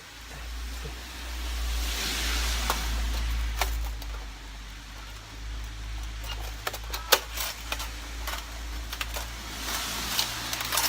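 Folding wood stove's metal panels and parts being handled, with sharp clicks and taps, thickest in the second half, over a steady low rumble and swells of rushing noise.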